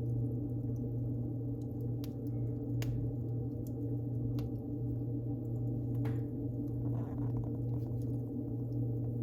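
Wood fire burning in a fireplace: a steady low rumble with a few sharp crackles and pops scattered through, and a brief hiss about seven seconds in.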